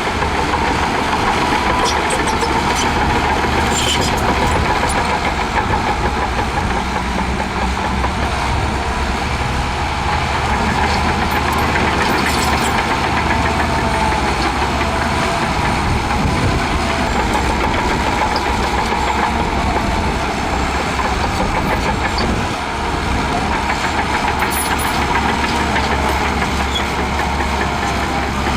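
Shantui DH17C2 crawler bulldozer's diesel engine running steadily at working speed, with a few faint clinks over it.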